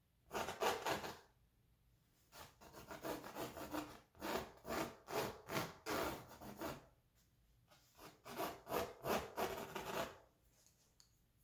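Pencil scratching on canvas in quick back-and-forth strokes. They come in four runs with short pauses between.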